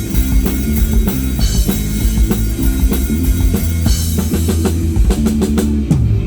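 Live rock band playing a sound check: drum kit with bass drum, bass and guitar. About five seconds in the drums play a fast fill, and the band breaks off near the end.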